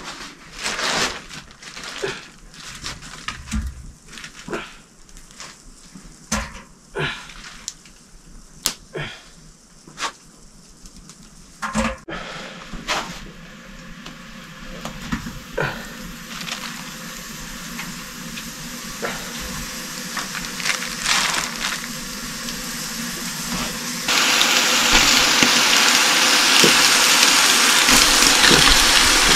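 Pork frying in a pan, sizzling, with scattered knocks and scrapes of a utensil against the pan. The sizzle builds slowly, then jumps suddenly to a loud steady hiss near the end.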